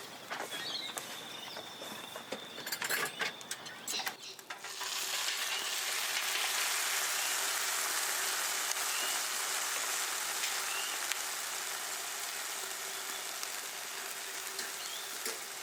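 Food sizzling in a hot pan over a campfire: a steady frying hiss that starts suddenly about a third of the way in. Before it, a few light clicks and knocks.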